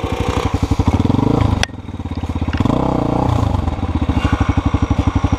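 Dirt bike engine running and revving up and down. About a second and a half in, its level drops suddenly with a sharp click, then builds again.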